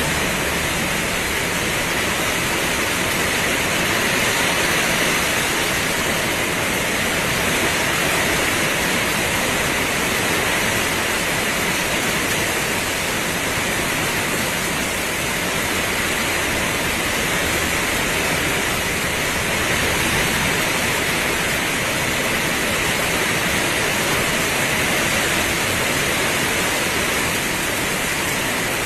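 Heavy rain pouring steadily: a dense, even hiss with gentle slow swells in loudness.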